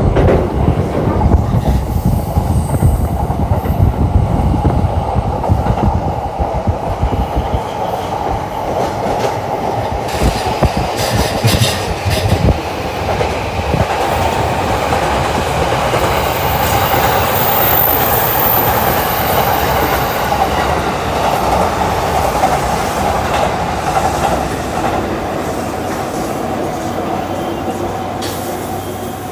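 Doctor Yellow Shinkansen inspection train running on the line. A heavy low rumble with rapid thumps for the first few seconds gives way to a steady hum that slowly fades near the end.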